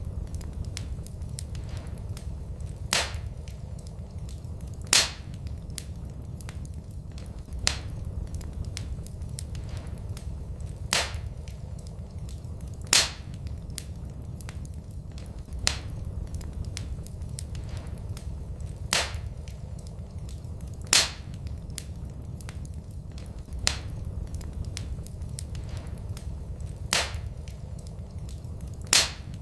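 Wood fire in a fireplace crackling, with sharp pops every two to three seconds over a steady low rumble.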